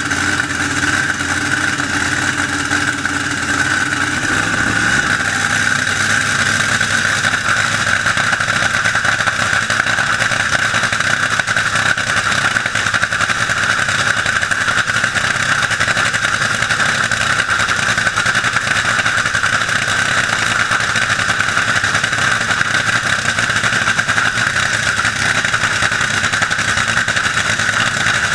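Drag boat engine idling steadily, its lower note shifting about five seconds in.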